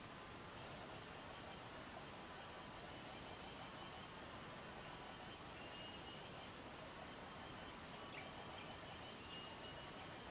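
High, rapid twittering call of the Kolibri Wulung sunbird, played over and over from a lure recording. It comes in phrases of about a second with short breaks, starting about half a second in.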